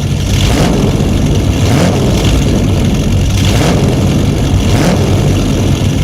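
Vehicle engine running loudly and steadily: a deep hum under a rough, hissing noise.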